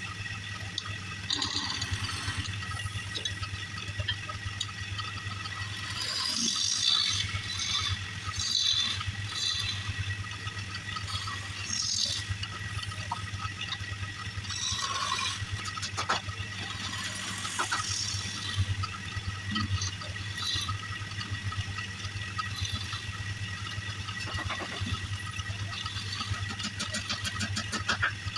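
Wood lathe motor running with a steady hum, while a turning tool scrapes against the spinning wood in irregular hissing bursts.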